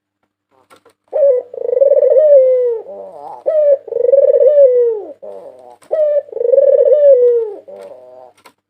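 White Barbary dove (puter putih) cooing, starting about a second in. It gives three long, wavering coos that each fall away at the end, separated by short clipped notes, with a few quick stuttering notes near the end.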